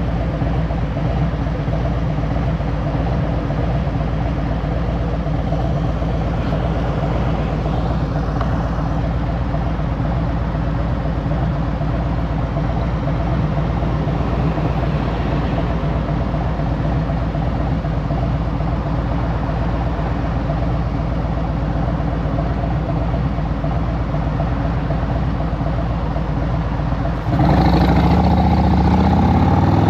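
2023 Harley-Davidson Road Glide Special's Milwaukee-Eight 114 V-twin running at a steady, even note. Near the end it jumps in loudness and rises in pitch as the throttle opens and the bike accelerates.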